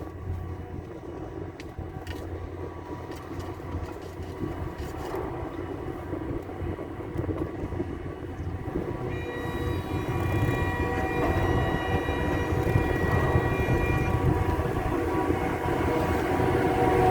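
Four-seat chairlift running, the rumble of the haul rope and sheaves growing louder as the chair nears the top station, with steady whining tones coming in about nine seconds in.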